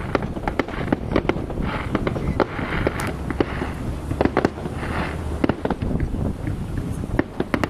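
Fireworks going off in a dense, irregular string of sharp bangs, with patches of crackling between them.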